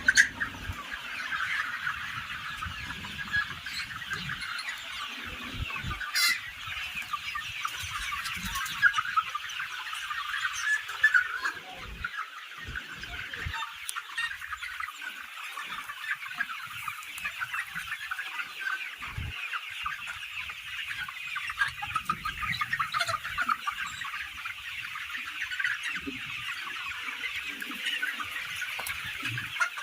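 A flock of domestic chickens clucking and calling continuously, many birds at once.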